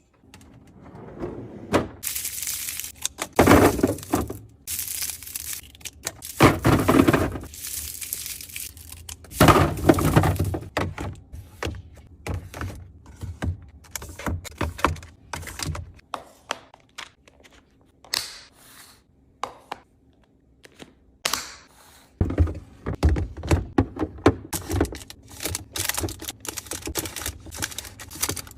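Food containers and packaging being handled and set down while a refrigerator is stocked: repeated knocks and clunks, with several longer bursts of rustling.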